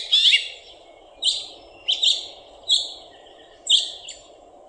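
House finch call notes: a series of short, sharp chirps, about one every half second to a second, each a little ring with a grating, gear-grinding quality typical of finches. A faint steady hum runs underneath.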